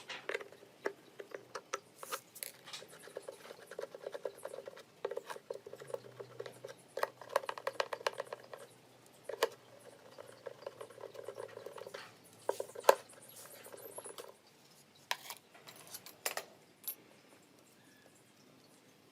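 Irregular small clicks, taps and rattles of hard objects being handled, with one sharper knock about two-thirds of the way through, over a faint steady hum that fades about 12 seconds in.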